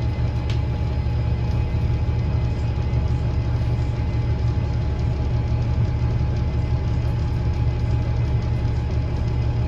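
2009 Gillig BRT 40-foot transit bus with its Voith transmission, heard from inside the cabin while under way: a steady low drone with a thin steady whining tone above it. A single sharp tick sounds about half a second in.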